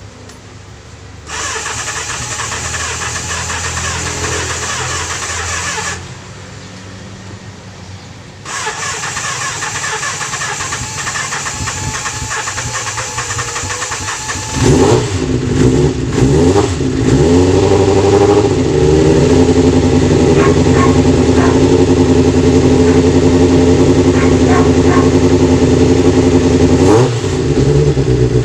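Kawasaki GPz400's electric starter cranking in two tries of about five seconds each, then the engine catches on the second try. It is revved a few times, then runs steadily, with a brief drop and rise in revs near the end. It is a hard-starting motorcycle.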